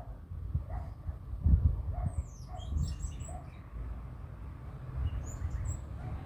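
Small birds chirping in quick, high-pitched runs from about two seconds in to three and a half, and again near the end. Beneath them, a lower call repeats about twice a second over a low rumble.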